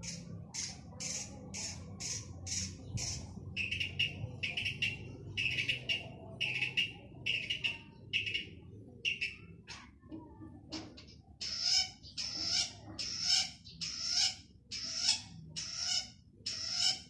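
Male long-tailed shrike giving a long run of harsh, scratchy calls, about two a second. After a short break with a few sharp ticks near the middle, the calls come back louder.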